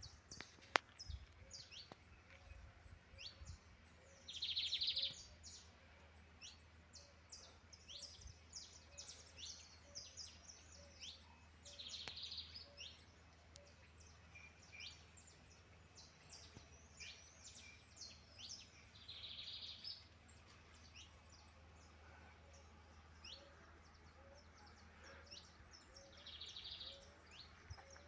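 Several small birds chirping and singing in short, high notes, with one louder buzzy trill repeating about every seven seconds, four times in all. Under them runs a faint low hum.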